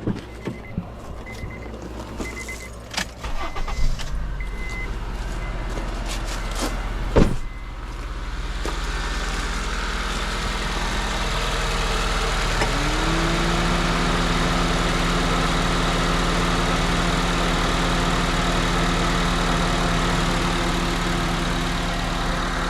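Honda K24 2.4-litre four-cylinder engine in a 2011 CR-V idling while the coolant system bleeds. There are a few sharp clicks and one loud knock in the first seven seconds. Past the middle, a motor spins up to a steady whir over the idle.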